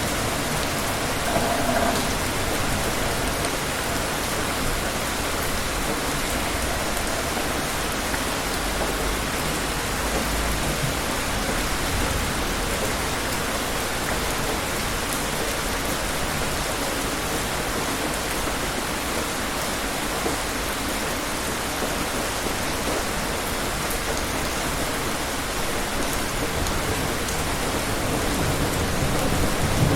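Steady rain falling, a constant even hiss of raindrops. Low rumbles of distant thunder come about nine seconds in and again near the end.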